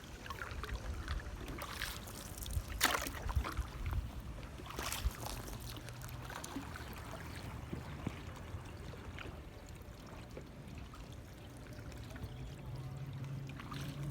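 Canoe paddle strokes in lake water: the blade dipping and pulling with splashes and drips, the strongest stroke about three seconds in and another about five seconds in.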